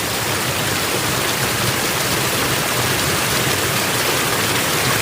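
Small mountain waterfall rushing steadily: a constant wash of falling water with no breaks.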